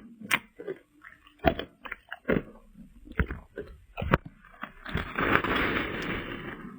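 Ice being bitten and crunched between the teeth close to the microphone: a few sharp cracks about a second apart, then a dense grinding crunch of chewing that lasts about a second and a half near the end.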